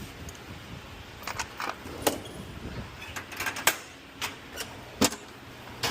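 Metal hand tools clinking and clanking as they are put away, a string of irregular sharp knocks, loudest about two, three and a half, and five seconds in, over a low steady hum.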